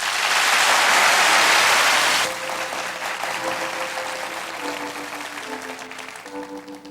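Live concert audience applauding loudly as a song ends; the applause drops sharply after about two seconds and dies away. As it fades, a keyboard plays soft, held chords.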